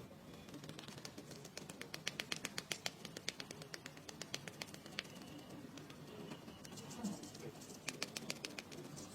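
Quick light tapping clicks, about six a second: a dense run about two seconds in, scattered single taps after, and another short burst near the end.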